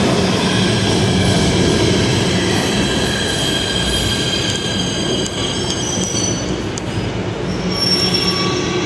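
PATH subway train moving along the track, a steady rumble with high-pitched wheel squeal coming and going over it.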